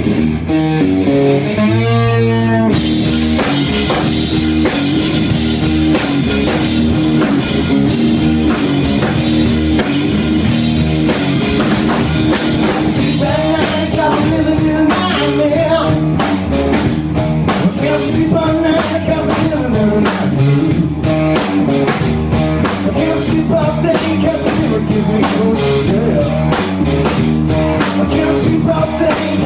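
Live rock band playing loud: a guitar alone for the first few seconds, then the drums with cymbals and the rest of the band come in and play on.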